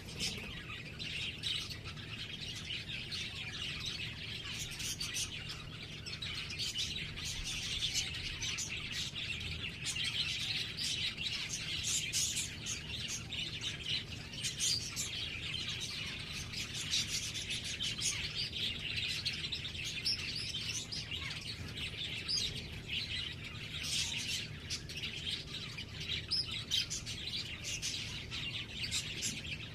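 Small birds chirping continuously, many quick high chirps overlapping without a break.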